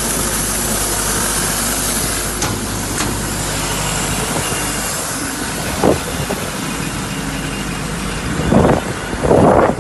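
An engine running steadily at idle under a strong, even hiss, with a few short knocks about six seconds in and near the end.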